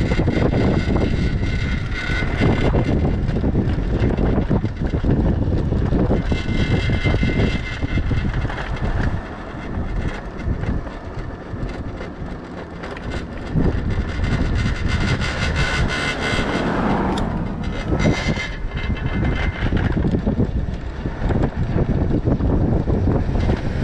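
Wind buffeting the microphone, with road rumble, while riding a Veo rental electric bike at speed. A steady high whine comes and goes over the rush.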